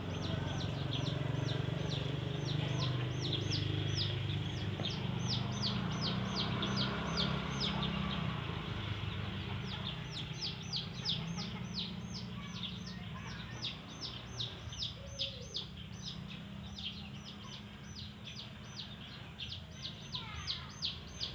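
Domestic chicks peeping over and over, short high falling peeps at about four a second, with a pause of a couple of seconds partway through.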